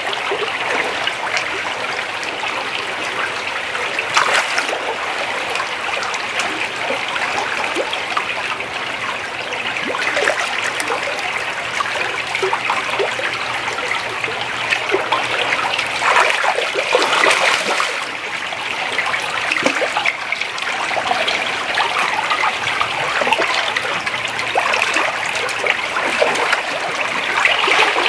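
Shallow creek water running and burbling steadily over a riffle, with brief louder surges about four seconds in and again around sixteen to eighteen seconds in.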